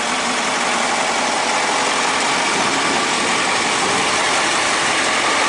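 Caterpillar 3208 V8 diesel engine in a 1977 International fire engine idling steadily, purring like a kitten: running smoothly.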